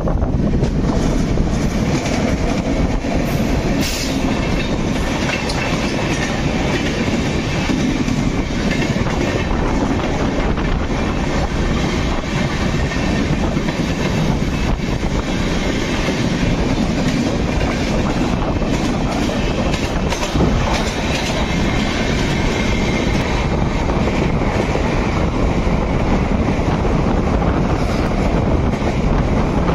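Passenger express train running on the rails, heard from an open sleeper-coach door: a loud, steady rush of wheel and rail noise with scattered clicks, and trains passing on the neighbouring tracks.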